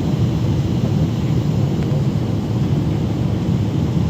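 Boeing 777-300ER's GE90 jet engines and airframe giving a steady low rumble.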